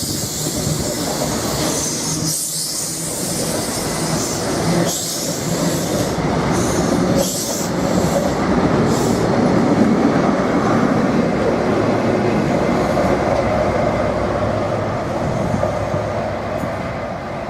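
A train running past on the rails, a steady loud rumble of wheels on track that swells to its loudest about ten seconds in and eases off near the end.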